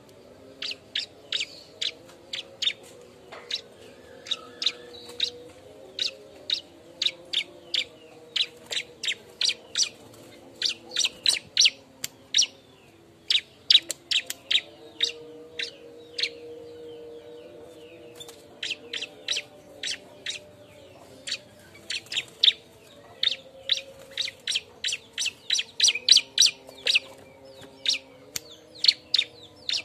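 Bar-winged prinia (ciblek) calling excitedly: a rapid series of sharp, high chirps, two to three a second, with a brief lull about two-thirds of the way through. A faint low hum of shifting tones runs underneath.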